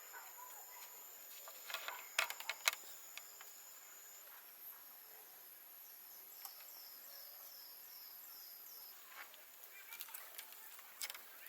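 Outdoor ambience: a steady high-pitched insect drone and a run of short repeated bird-like chirps, with a few sharp knocks or taps about two seconds in and again near the end.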